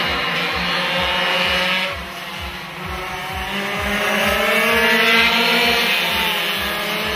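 Small two-stroke pocketbike engines running hard at racing revs, their pitch rising and falling as the bikes accelerate and pass.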